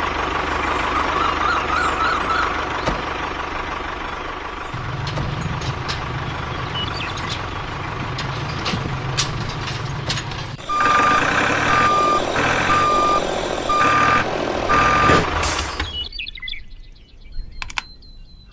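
A truck's reversing alarm beeps five times at one steady pitch, about once a second, over a running vehicle engine. The engine runs on its own for the first ten seconds or so before the beeping starts.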